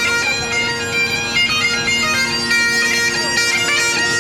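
Bagpipes playing a tune over their steady drones, the melody moving from note to note throughout.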